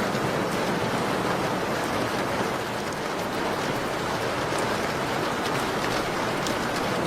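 Steady rain falling in an even hiss, with scattered light crackles from a wood fire in a fireplace.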